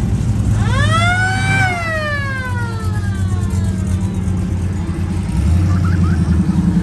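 Car engines idling with a steady low rumble. About half a second in, one loud tone sweeps up in pitch for about a second, then falls away slowly over the next second and a half.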